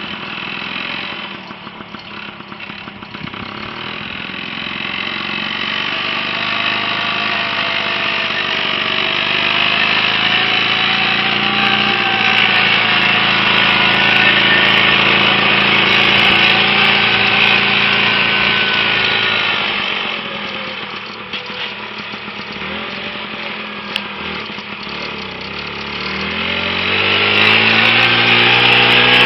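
Single-cylinder two-stroke WSK 125 engine of a homemade tractor running under way. Its revs climb over the first several seconds, ease off about twenty seconds in, then rise again near the end.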